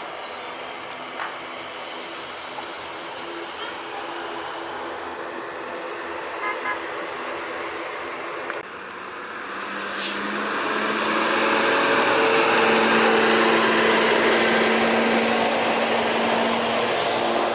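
Jet airliner engine noise: a steady hiss with a thin high whine, then after a sudden change about halfway through, a louder broad jet noise with a low hum swells up and slowly eases. A single sharp click comes just before the swell.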